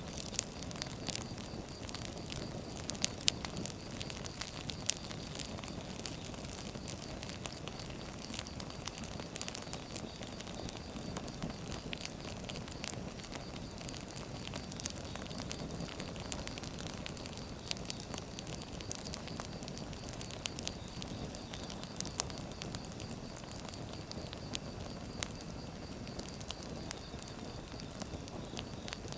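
Firewood burning: irregular sharp crackles and pops over a steady low hiss of the flames.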